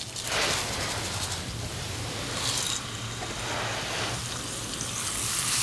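Bath bomb being scraped and broken apart by hand, with its crumbs fizzing in water. The fizzing hiss grows louder and steadier near the end.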